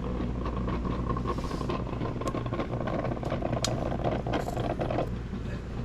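An engine running steadily at idle, with scattered clicks and rustling over it.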